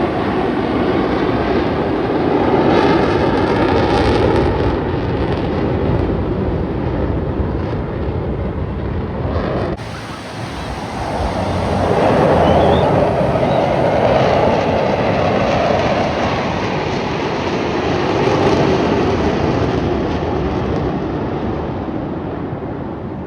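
Jet noise from Blue Angels F/A-18 Super Hornets flying past. It swells and fades over several passes, and there is an abrupt drop about ten seconds in.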